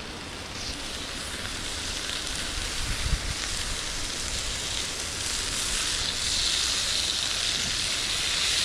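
Burgers sizzling on a grill, a steady hiss that slowly grows louder, with a brief low thump about three seconds in.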